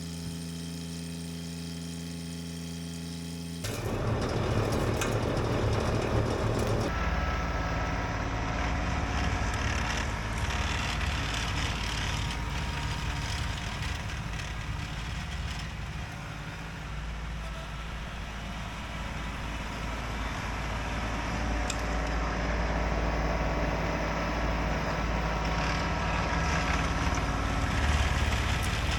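Kubota LX2610 compact tractor's diesel engine running with its LX2963 snowblower. It starts as a steady engine tone, then about four seconds in turns louder and fuller with a rushing noise, and stays that way.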